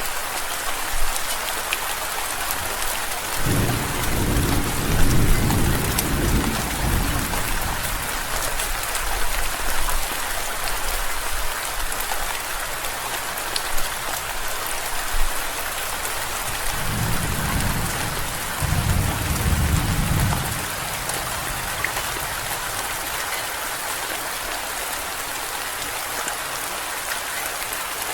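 Steady rain hissing, with scattered drop ticks. Two low rolls of thunder come through it: one a few seconds in lasting about four seconds, and another about seventeen seconds in lasting about three seconds.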